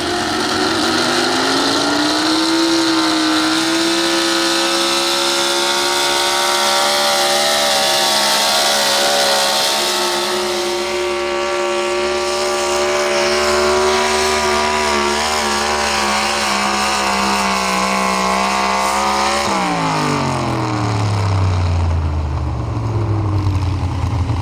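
Pro Stock 4x4 pulling truck engine at full throttle under load, its pitch climbing in the first couple of seconds and then held high. About 19 seconds in the throttle lifts and the engine's pitch drops steeply.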